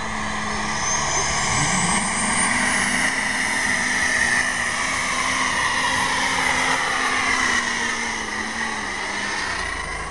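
Turbocharged diesel engine of a pulling tractor running loud at high revs under load, with a turbo whine rising over the first few seconds. The engine note sags and the sound eases off near the end.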